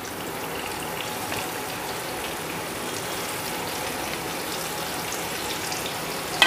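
Potato wedges and pointed gourd (potol) pieces sizzling steadily in hot mustard oil in a frying pan, the sizzle growing a little louder in the first second as the gourd pieces go in. A single sharp knock comes at the very end.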